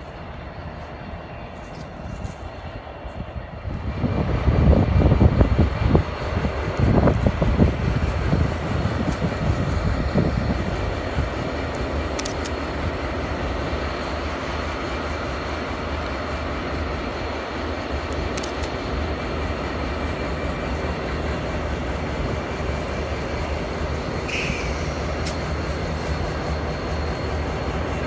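Diesel-hauled train passing close by: the locomotives go past loudly about four seconds in, then the train's cars keep rolling by with a steady rumble and wheel noise.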